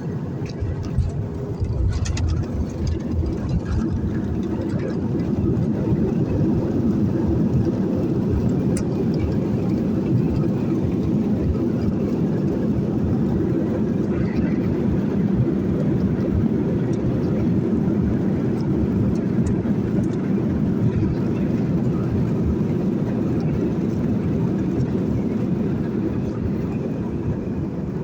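Airliner cabin noise during the final approach or landing: a steady low rumble of engines and airflow, getting louder about two seconds in and then holding.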